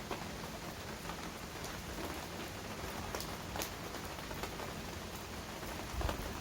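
Heavy rain falling steadily, with single drops landing close by as sharp taps scattered through it. A low rumble comes up near the end.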